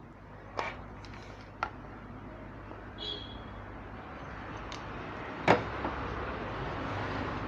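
Sharp clicks and knocks from handling on an electronics repair bench, with a short high beep about three seconds in, over a background rumble that slowly grows louder.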